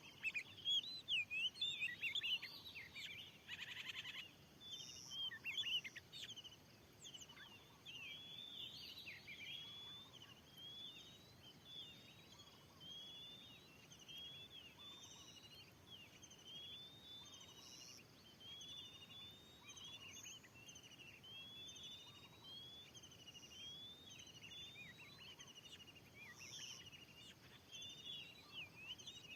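Oriental magpie-robin singing: a quick, varied run of whistles for the first ten seconds or so, then a short upward-curving whistle repeated about once a second.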